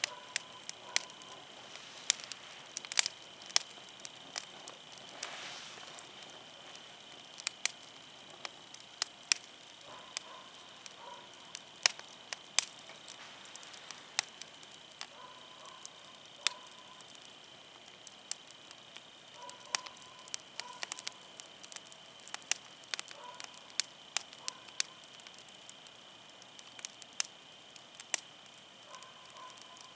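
Wood campfire burning, the firewood crackling with irregular sharp pops.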